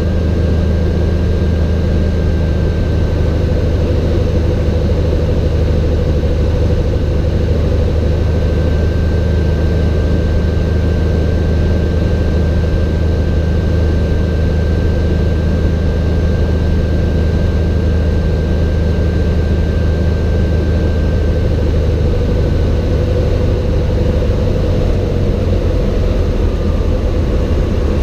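Cessna 182's piston engine and propeller droning steadily, the pitch easing lower near the end.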